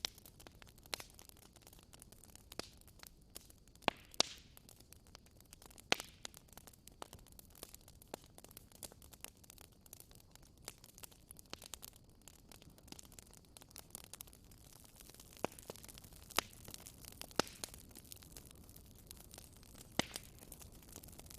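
Campfire crackling: irregular sharp pops and snaps of burning wood over a faint steady hiss.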